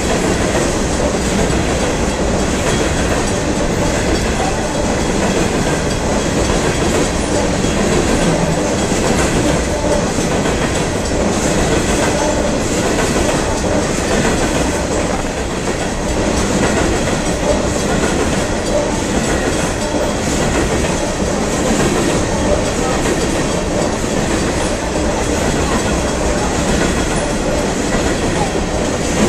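Coal train's open-top hopper cars rolling past close by: a loud, steady rumble and clatter of steel wheels on the rails that does not let up.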